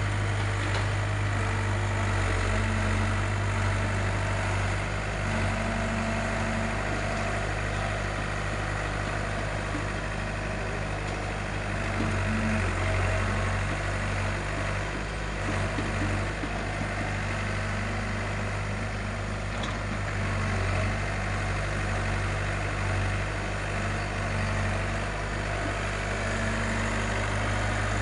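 Heavy diesel engine of road-construction machinery running steadily at a low, even speed with a deep hum.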